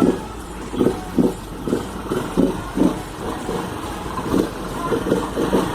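Honda Pop single-cylinder four-stroke engine running with the intake collector pulled off its air-filter box, which is done to make the bike louder. The note swells unevenly, about twice a second.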